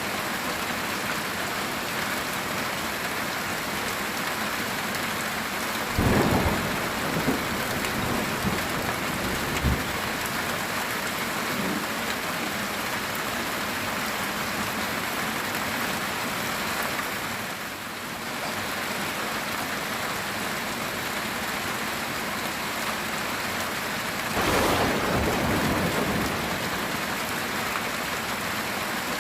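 Heavy rain falling steadily on a metal roof. Thunder rumbles twice, about six seconds in, with smaller rumbles trailing for a few seconds, and again near the end.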